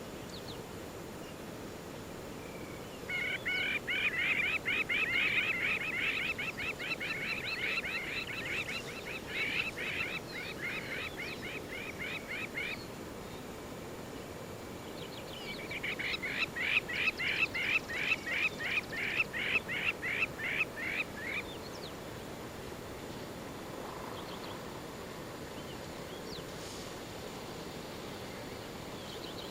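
A bird calling in two long runs of rapid repeated notes, about four a second: the first starts about three seconds in and goes on for some nine seconds, and the second comes a few seconds later and lasts about six seconds.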